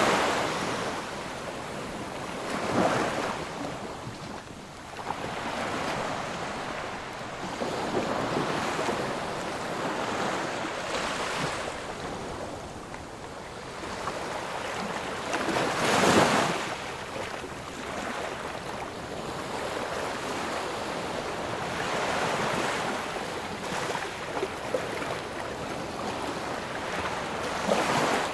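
Sea surf: waves breaking and washing ashore in a steady hiss, with louder surges about every few seconds, the biggest near the start and about halfway through.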